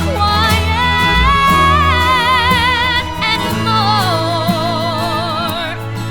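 A song: a singer holds long notes with wide vibrato, gliding between them, over steady instrumental backing.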